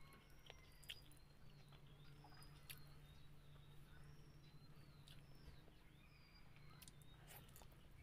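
Near silence: faint chewing and small clicks of eating with the fingers over a low steady hum, with short high chirps scattered through.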